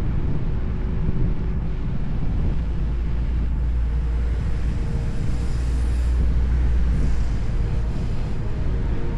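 Wind rumbling on the camera microphone while riding an electric unicycle, steady throughout. A faint thin whine comes and goes in the middle.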